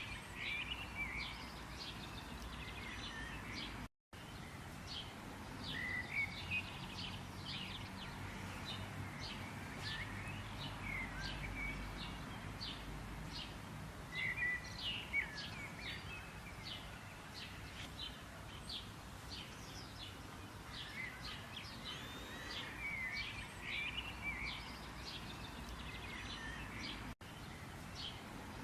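Several birds chirping and singing: a steady stream of quick, sharp chirps mixed with short sweeping phrases, over a steady outdoor background hiss. The sound cuts out for an instant about four seconds in and again near the end.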